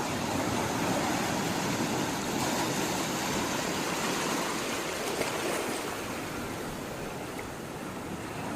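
Sea water rushing and washing in a steady wash that swells a little over the first few seconds and eases slightly toward the end.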